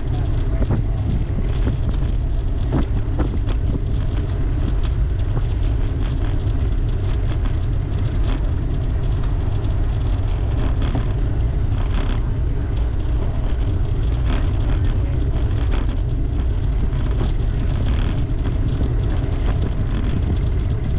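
Wind buffeting a camera microphone on a moving bicycle: a steady low rumble with scattered light clicks.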